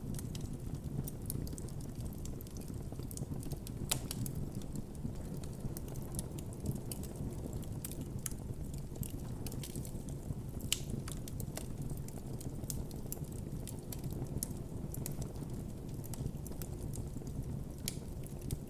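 Campfire burning with a low steady rumble of flames, and wood crackling and popping in scattered sharp snaps, a few louder pops about 4 and 11 seconds in.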